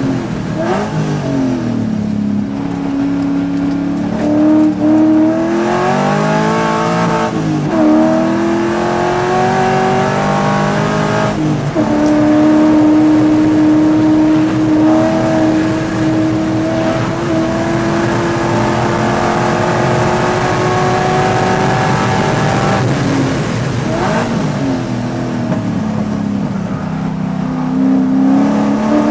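Race car engine heard from inside the cabin at full race pace, its pitch dropping under braking and downshifts, then climbing under throttle. A short break in the sound about eleven seconds in, then a long steady climb in pitch through most of the middle, a drop a couple of seconds later, and another climb near the end.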